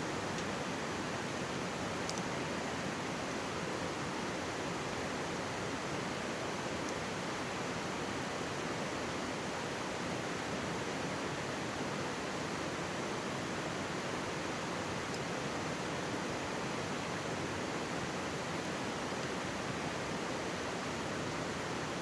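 Mountain stream flowing steadily, an even rushing of water, with a few faint crackles from a wood campfire, the clearest about two seconds in.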